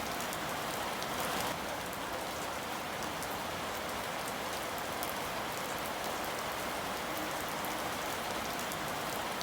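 Steady rain falling on a surface, an even hiss with fine scattered drop patter.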